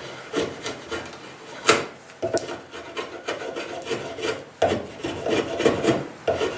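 Hand-forged spring-steel draw knife shaving a piece of oak: a run of uneven scraping strokes with short clicks, the sharpest click just under two seconds in.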